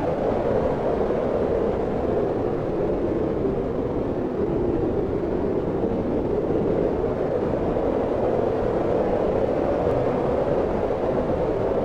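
Steady, strong wind blowing, a continuous low rushing with slow gentle swells.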